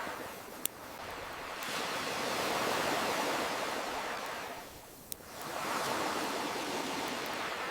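Ocean waves washing in and drawing back, swelling and fading twice, with sharp pops of a crackling campfire, once about a second in and again just past halfway.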